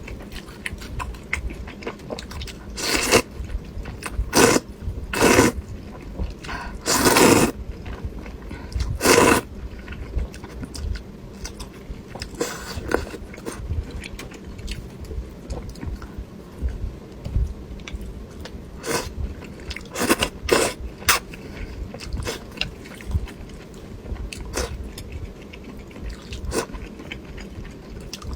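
Close-miked eating of duck blood vermicelli soup: chewing and soft wet bites, broken by about ten short, loud slurps of noodles and broth spaced irregularly through.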